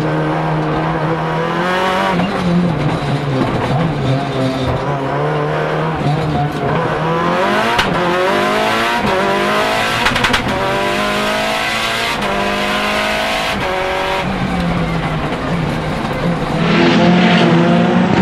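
Lancia Delta Integrale EVO Proto's turbocharged 2.0-litre four-cylinder engine driven hard, heard from inside the cabin. The revs rise and fall again and again with quick sequential-gearbox shifts. Near the end the car is heard from trackside, louder.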